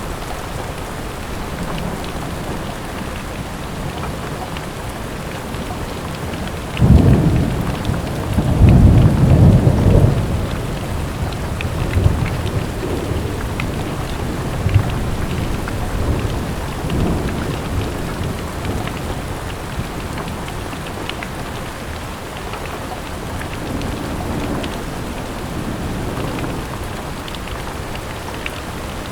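Steady rain falling, with thunder rumbling: a loud roll about seven to ten seconds in, then fainter rumbles later on.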